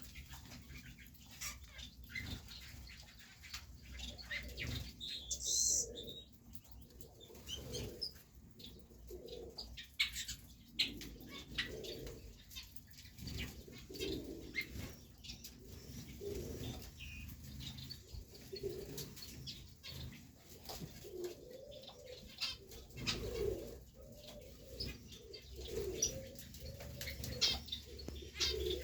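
Pigeons cooing over and over, with wings flapping and many short sharp clicks scattered throughout.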